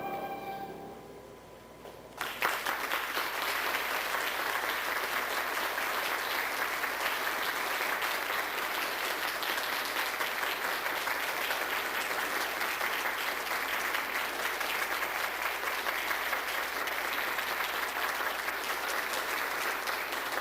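Audience clapping, starting suddenly about two seconds in just after a song's last notes fade, then holding steady until it dies away near the end.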